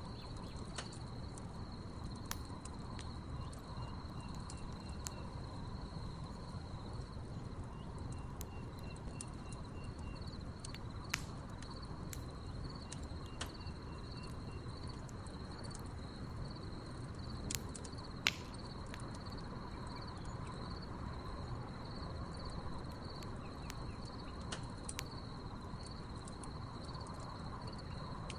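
Crickets chirping in a steady high trill, with a second, lower insect pulsing in short runs a few times. Scattered sharp pops and crackles from a burning wood fire come every few seconds, the loudest about two-thirds of the way through.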